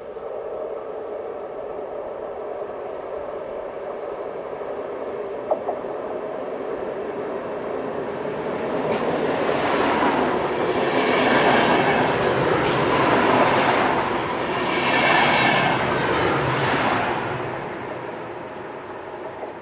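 Electric commuter train passing through the station. A steady hum builds as it approaches, then loud wheel-on-rail noise swells for several seconds and fades away near the end.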